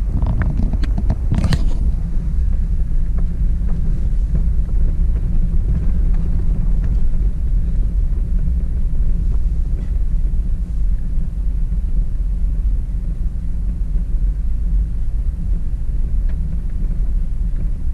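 Car driving on a bumpy dirt forest road, heard from inside: a steady low rumble of engine and tyres, with a few sharp knocks and rattles in the first two seconds.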